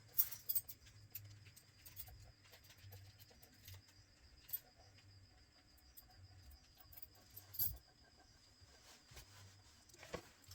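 Faint, scattered clicks and light taps of small phone parts and tools being handled on a workbench, a few sharper ones near the start, about two thirds of the way in and near the end. Under them runs a steady high, rapidly pulsing trill, like a cricket.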